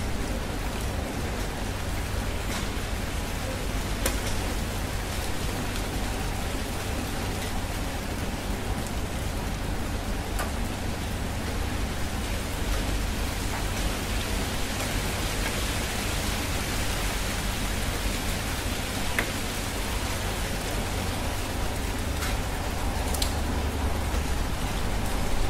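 Steady summer rain falling, an even hiss with a few sharper drop ticks scattered through it.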